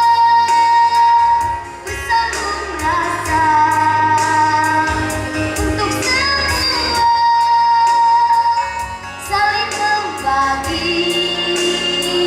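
A child singing in a shrill, high voice over backing music, holding long high notes twice.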